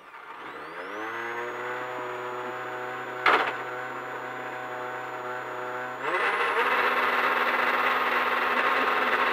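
Ford Fiesta rally car's engine revved up and held at steady revs while standing still at the stage start, ready to launch. About three seconds in there is a single sharp crack, and at about six seconds the revs step up to a higher, louder level that is held.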